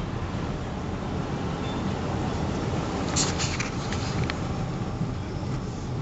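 Car driving, with steady engine and road noise. A short run of sharp clicks comes about three seconds in.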